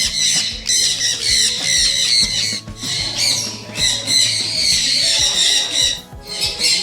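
A flock of helmeted guinea fowl calling: harsh, rapid, high chattering in bouts, with two short breaks. Background music plays underneath.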